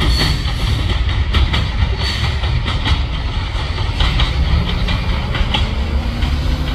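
Loaded rock-train freight cars rolling past at a grade crossing: a steady heavy rumble with irregular clacking of the wheels on the rails.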